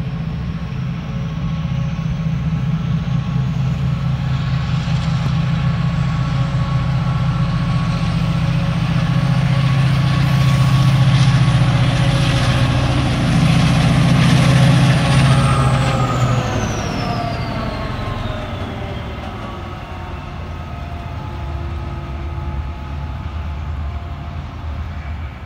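Passenger trains moving through a station: a loud, steady engine drone that swells and then cuts off about sixteen seconds in, while a high whine falls in pitch and the sound dies away.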